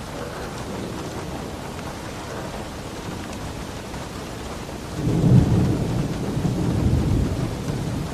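Steady heavy rain, with a loud low rumble of thunder that comes in suddenly about five seconds in and rolls on.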